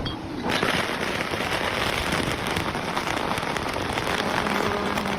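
Dense crackling rush of water, like heavy spray or a downpour, setting in suddenly about half a second in and holding steady: the splash and falling spray of a ship's hull entering the water at launch.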